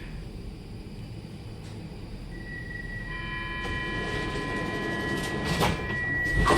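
Train approaching, its rumble growing steadily louder, with a long high-pitched tone that starts about two seconds in and holds.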